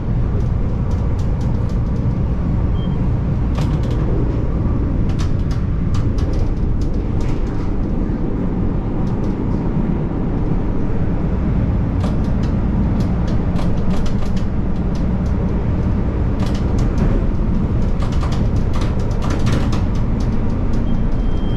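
CTA Yellow Line rapid-transit train running at speed, heard from inside the car: a steady low rumble of wheels on rail, with frequent sharp clicks and clacks at irregular intervals.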